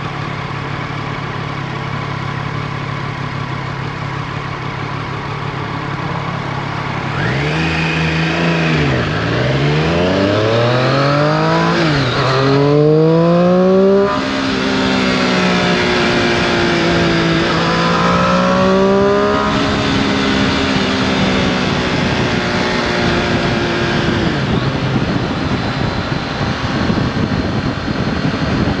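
2018 Triumph Street Triple RS's 765 cc three-cylinder engine ticking over at a standstill, then pulling away hard, revving up and shifting up through the gears several times, each shift a sudden drop in pitch, before settling to a steady cruise.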